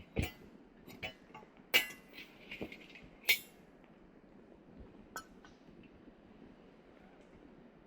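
Wood fire crackling, with a run of sharp pops in the first three and a half seconds, the loudest about two and three seconds in, one more pop about five seconds in, then only a faint crackle. The firewood is not fully dry.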